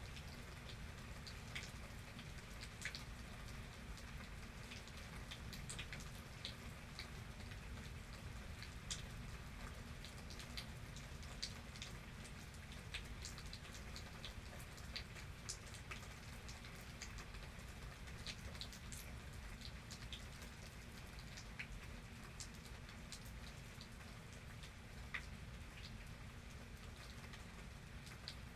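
Steady rain with many separate drops ticking sharply on a surface, over a constant low rumble of the downpour; no thunder clap stands out.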